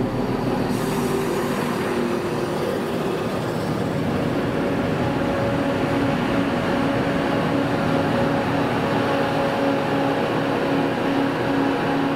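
Southern multiple-unit passenger train moving slowly past along the platform, its running gear and traction equipment giving a steady hum with several held tones.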